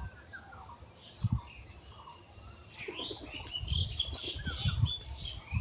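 Small bird chirping, faintly at first, then in a rapid run of high, quick chirps from about three seconds in, over low thumps.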